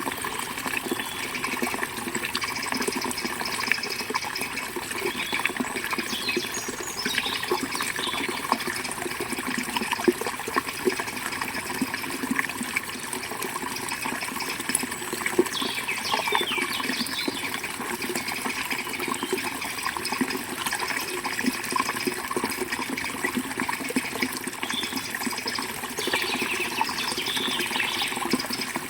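River water flowing steadily over rocks, with short bird chirps now and then.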